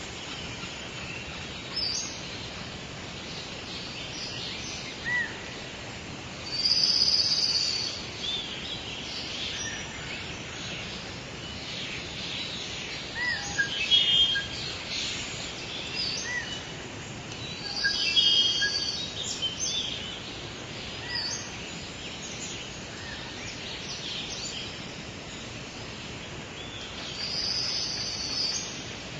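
Wild birds chirping and singing over a steady background hiss, with short chirps throughout and a louder burst of song returning about every five seconds.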